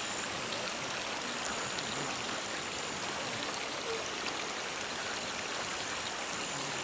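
Steady rush of running water, as of a stream or irrigation channel, with a faint thin high tone held above it.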